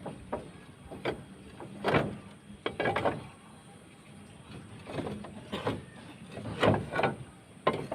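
Roof tiles being taken off a roof: irregular clacks and knocks with short scrapes as tiles are lifted and set down on one another, loudest about two seconds in and again near the end.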